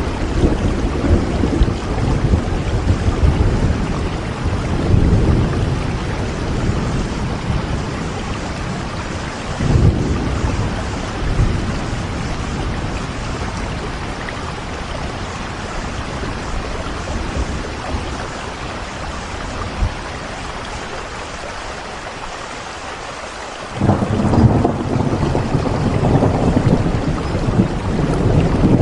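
Steady rain with thunder rolling in low rumbles. The rumbling eases for a few seconds, then a fresh, louder roll of thunder comes in suddenly near the end.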